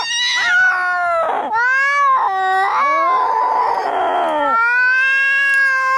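Cats yowling in a fight: long, drawn-out wavering howls that slide up and down in pitch, with a harsh, rasping scream in the middle.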